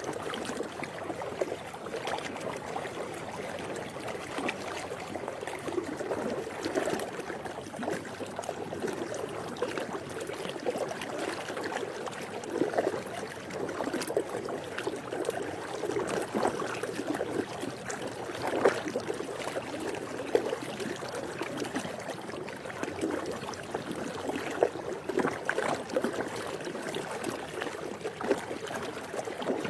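Swimming pool water lapping continuously, with many small irregular splashes and drips.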